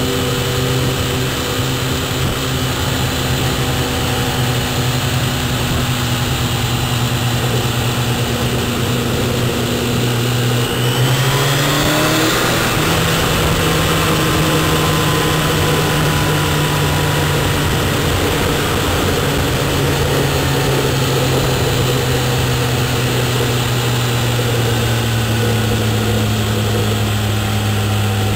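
Car engine running at road speed with road noise, heard from inside the cabin. The engine note rises about twelve seconds in, then slowly drops toward the end.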